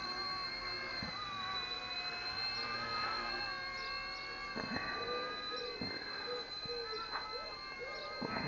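RC ERA A60 micro electric helicopter in flight: a steady high-pitched motor and rotor whine that wavers slightly in pitch.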